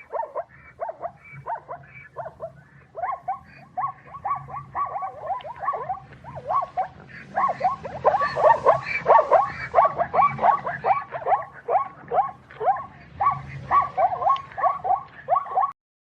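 Animal calls repeated rapidly, about three a second, each a short falling cry. They grow louder about halfway through and stop abruptly shortly before the end.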